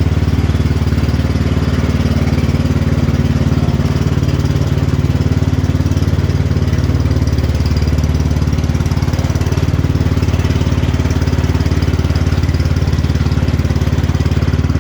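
Cub Cadet XT1 Enduro Series garden tractor engine running at a steady speed, loud and even with no change in pitch.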